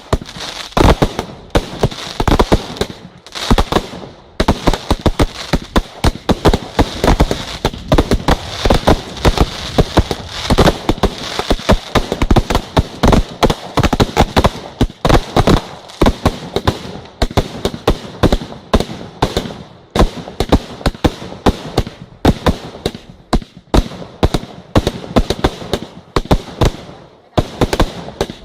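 Fireworks display in a rapid barrage: many loud bangs a second overlapping with crackling, easing briefly near the end.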